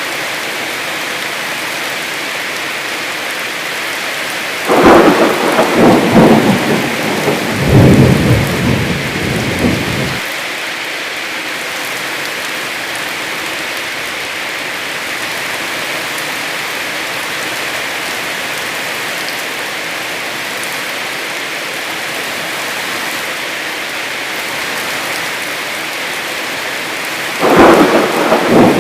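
Heavy rain falling steadily, broken about five seconds in by loud thunder that cracks and rolls on in two surges for about five seconds, and by another thunderclap near the end.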